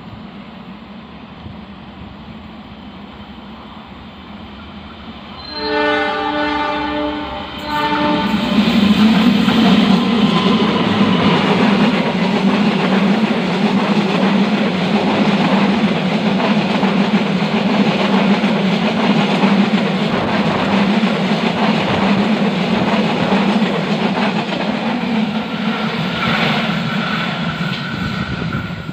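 A diesel-hauled passenger train sounds one long horn blast, then passes close by over a double-track railway bridge. Its loud, steady rumble and the clatter of its wheels go on for about twenty seconds. A thin, steady high tone comes in near the end as the train passes.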